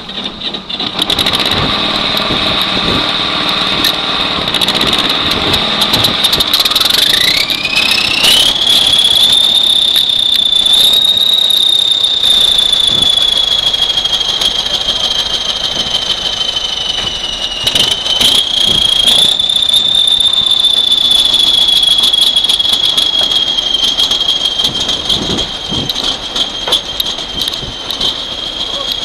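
High-pitched turbine whine from an aircraft: about seven seconds in it rises sharply in pitch as it spools up, then holds a steady, piercing note with slight wavers in pitch.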